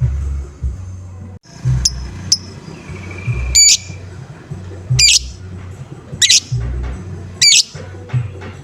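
Lovebird giving its "ngoek" calls: two short chirps, then four loud calls spaced a little over a second apart, over background music with a steady bass beat.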